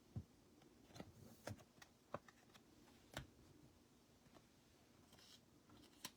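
Faint, scattered clicks and taps of trading cards being slid into plastic sleeves and set down on a table, about half a dozen in all.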